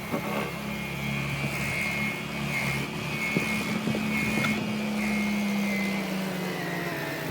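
Carpet-cleaning machine running steadily: a low motor hum under a high-pitched whine, the hum shifting in pitch about halfway through.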